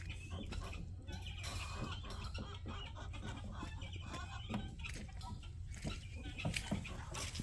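A flock of chickens clucking, many short overlapping calls throughout, with a few sharp clicks among them.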